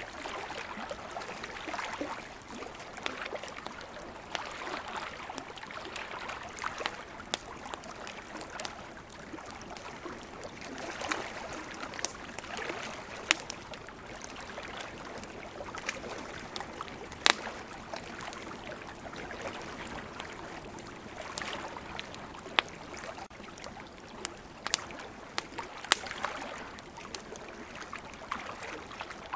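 Campfire crackling, with sharp irregular pops of burning wood, the loudest about halfway through and again near the end, over a steady wash of ocean waves.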